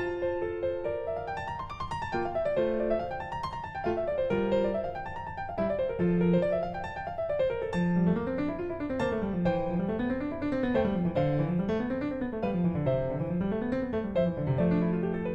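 Background piano music: quick notes running up and down in rippling arpeggios.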